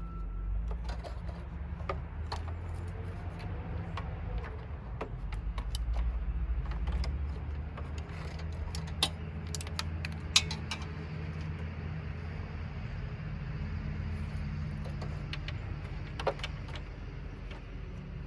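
Scattered metallic clicks and clinks from tools and metal parts being handled, over a steady low hum. Sharper clinks come about nine, ten and sixteen seconds in.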